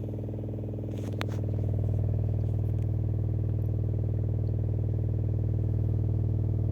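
Free-air subwoofer driven by a SounDigital 3000.1 Evo 4.0 car amplifier, playing a steady, loud low bass tone with a slight regular pulsing, as a test of the amplifier after its power supply was rebuilt. There is a click about a second in, and the bass gets louder just after.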